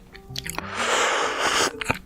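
Close-miked eating of fruit over soft background music: small chewing clicks, then a loud rushing, slurp-like noise lasting about a second in the middle.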